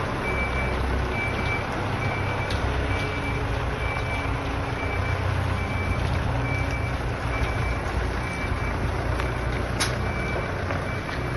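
Heavy machinery launching a yacht: a diesel engine runs steadily under a motion-warning beeper that beeps about twice a second. A single sharp click comes near the end.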